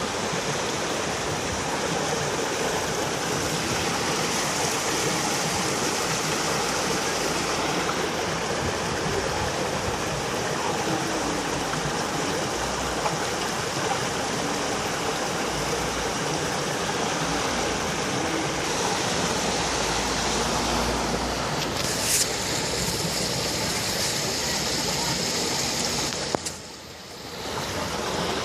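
Steady rushing of moving seawater at the shore, an even wash of noise with no break. A brief sharp click sounds near the end, and the rush drops out for about a second shortly after.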